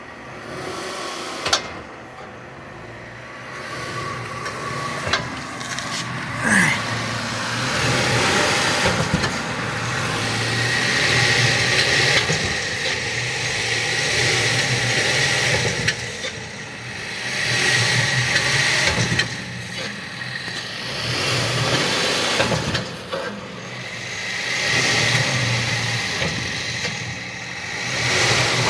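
Hyundai Entourage minivan's V6 running in reverse while its lifted front wheels spin, the whir swelling and falling every few seconds as the brakes are pressed and released. A few sharp clunks come in the first several seconds, the kind of clucking that brake presses caused under full steering lock.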